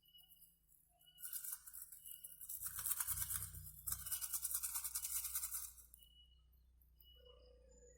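Rapid scratchy scraping or rubbing starts about a second in and runs for about four and a half seconds, loudest in the middle, then stops.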